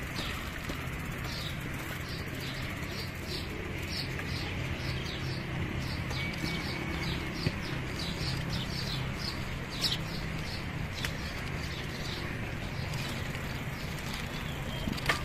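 Small birds chirping in the trees: a quick, irregular run of short high chirps that thins out after about ten seconds, over a steady low hum.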